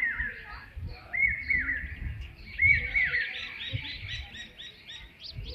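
A bird calling: paired notes that arch up and drop, repeated three times, then a quick run of higher, shorter notes about halfway through.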